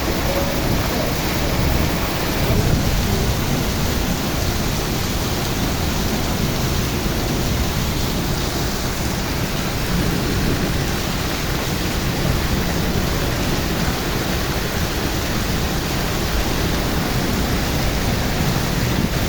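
Rain falling heavily: a steady, even rush of noise with a deep rumble underneath.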